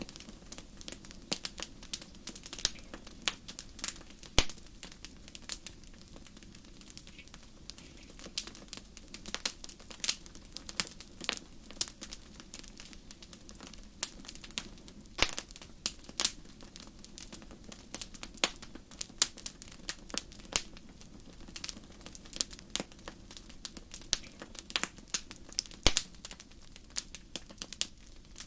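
Wood campfire crackling: a continual scatter of irregular snaps and pops, a few of them sharply louder, over a low steady background.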